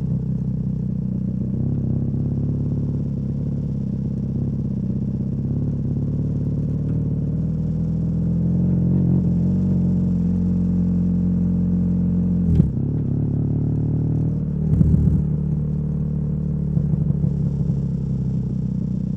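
BMW R nineT's boxer-twin engine, fitted with a Competition Werkes slip-on exhaust, running steadily on the move, its pitch climbing about eight seconds in. A sharp clack sounds about twelve and a half seconds in, and a short rush of noise comes around fifteen seconds.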